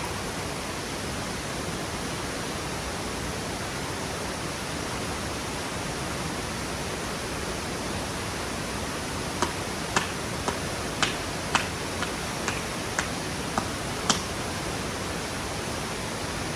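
Steady rushing of a waterfall or stream. About halfway through comes a run of roughly ten sharp taps, about two a second, that lasts some five seconds.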